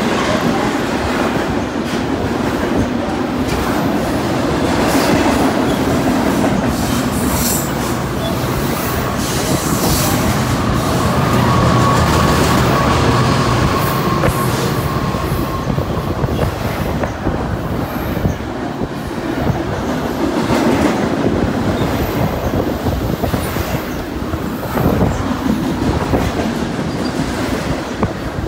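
Freight cars of a long freight train rolling past: a steady rumble and clatter of steel wheels over the rail joints, with a thin squeal for a few seconds midway.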